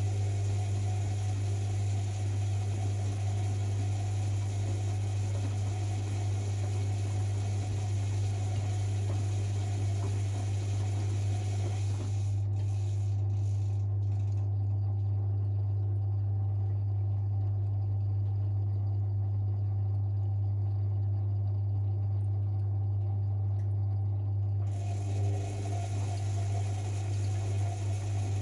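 Privileg 5020 front-loading washing machine running its wash cycle: a steady low motor hum with light mechanical rattle and water sounds. The higher hiss drops away for about twelve seconds midway, then comes back. The motor sound shows its wear from years of laundry use, as the owner puts it.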